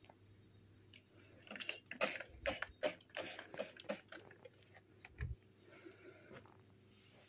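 A quick irregular run of light clicks and knocks from household items being handled, loudest in the middle and thinning out near the end.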